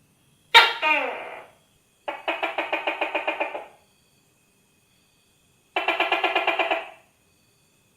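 Gecko calling: one sharp call that slides down in pitch about half a second in, then two rapid, even trills of about ten chirps a second, each lasting a second or more.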